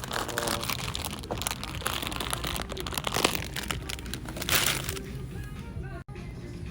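Plastic snack packaging crinkling and rustling as it is handled, over background music; the crinkling stops about five seconds in, leaving the music.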